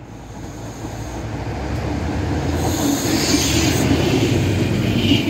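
Fiat Minuetto ALn 501-502 diesel railcar running alongside the platform, its engine and wheels growing louder over the first few seconds and then steady. A brief high hiss comes midway and a short squeal near the end.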